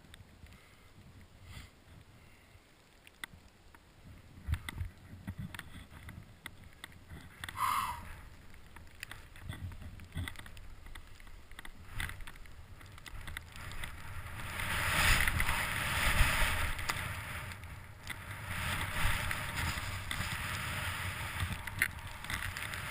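Rushing noise of movement over snow with wind on the camera. It is faint at first, grows loud about fourteen seconds in and stays loud with a short dip, with scattered clicks throughout.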